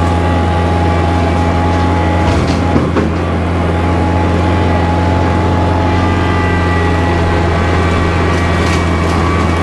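Kubota tractor's diesel engine running steadily at working speed, with a few brief knocks about two to three seconds in.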